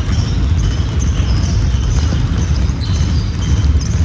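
Basketball game play: a ball bouncing on the court and short high sneaker squeaks over a steady low rumble.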